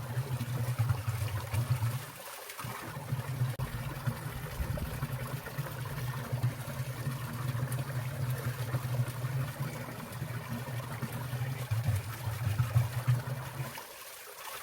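Water of a winter valley stream trickling and falling steadily, with a low rumble underneath that drops out briefly twice.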